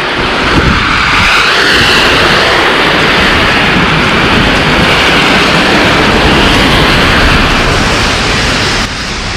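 A vehicle passing close by on a wet, slushy road: a loud, steady rush of engine and tyre noise that builds over the first second and eases a little near the end.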